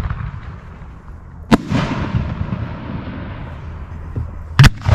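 1.3G display firework shells: two sharp booms about three seconds apart, each followed by a rolling tail, over a low rumble.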